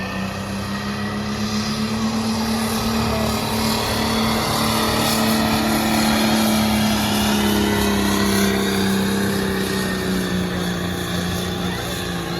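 Engine of a pulling truck or tractor running with a steady drone, its pitch rising slightly over the first few seconds, holding, and easing down a little near the end.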